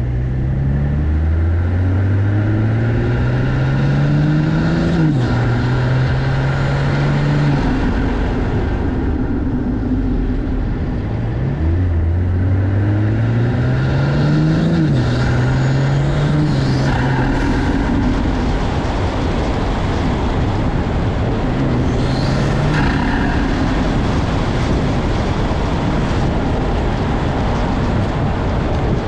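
BMW M340i's turbocharged B58 straight-six, fitted with an MST cold air intake, pulling hard twice: revs climb steadily through a gear, then drop sharply at each upshift. Between and after the pulls it runs at steadier revs with brief throttle blips.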